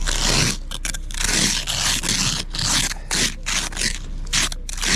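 Snow being scraped and shoveled in quick repeated strokes, about eight in a row.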